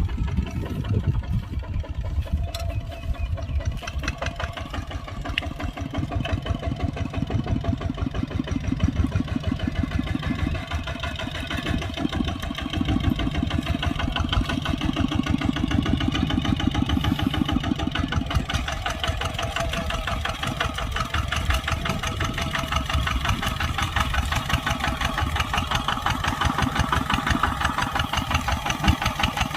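Kubota tractor's diesel engine running steadily with a rapid, even chug, swelling a little in level in places.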